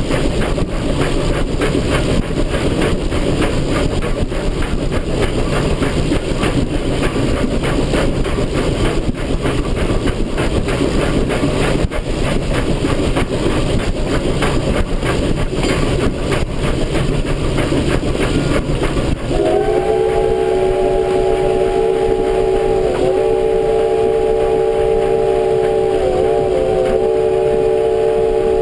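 Steam locomotive CP 3716, a 2-8-0, running with a loud, rapid, rhythmic clatter. About two-thirds of the way through, its chime steam whistle sounds one long chord of several notes for about nine seconds, wavering briefly twice, before cutting off.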